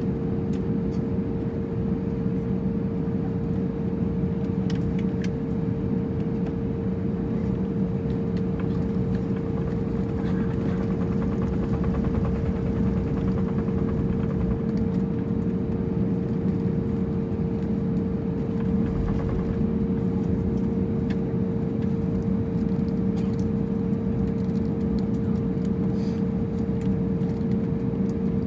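Steady cabin noise inside an Airbus A320 on the ground with its engines at idle: a low rumble with a constant hum.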